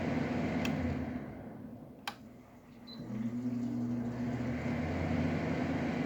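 LG 12,000 BTU window air conditioner humming, then winding down and going quiet, with a sharp click, before starting up again about a second later with a rising hum that settles steady: the unit cycling off and back on under its plug-in thermostat.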